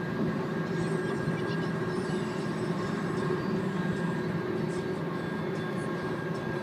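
Steady road and wind noise inside the cabin of a Nissan Leaf electric car cruising at about 70 mph, with a thin, steady high tone running through it.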